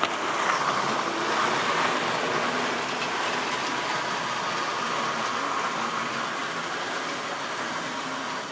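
Tri-ang or Lima model railway train running along the track: a steady rolling rattle of wheels on rails with the motor whirring, slowly getting quieter.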